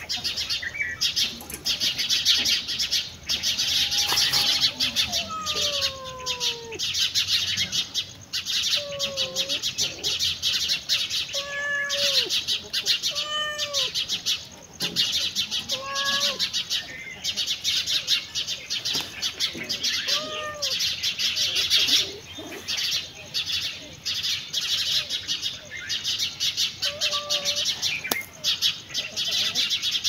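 Chorus of many birds chirping rapidly and without pause, with a separate lower call, short and arching, repeated every one to two seconds through the middle.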